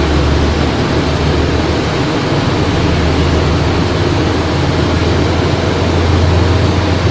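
A train running through the station: a loud, steady rumble with a low drone that grows stronger near the end.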